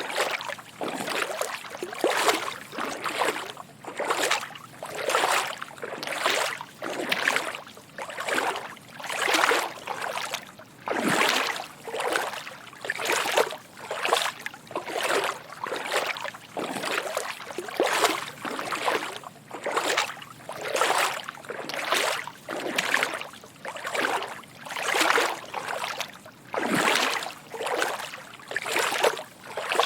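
Footsteps wading through shallow water: soft sloshing splashes at a steady walking pace, roughly one step a second.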